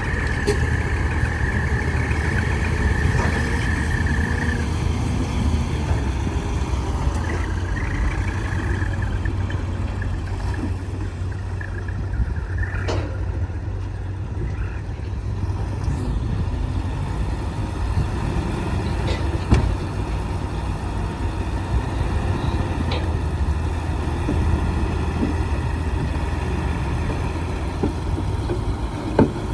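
Heavy diesel engine of earthmoving machinery running steadily, with a high steady whine over the first few seconds and a few sharp metallic knocks later on.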